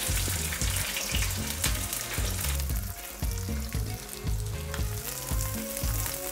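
Shallots sizzling as they fry in hot coconut oil in a kadai, stirred with a wooden spatula. A low, steady bass beat runs underneath.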